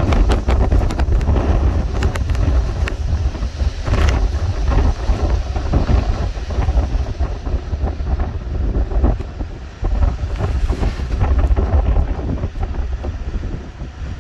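Wind buffeting the microphone in gusts: a loud, uneven low rumble that eases briefly about ten seconds in, then picks up again.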